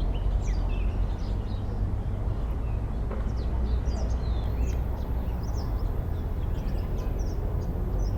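Field recording of several wild birds giving many short, high chirps and calls, scattered and overlapping, over a steady low background rumble.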